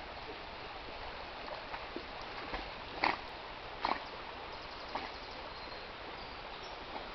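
A dog barking in short sharp barks, the loudest two about three and four seconds in, over a steady hiss of flowing water.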